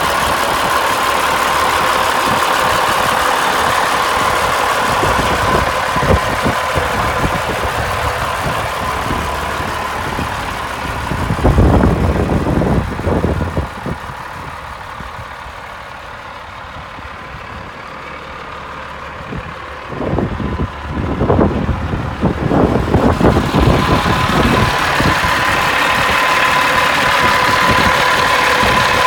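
Diesel engine of a 1989 Peterbilt 375 truck running with a steady whine. It goes quieter for several seconds in the middle, with louder uneven stretches just before and after the quiet part.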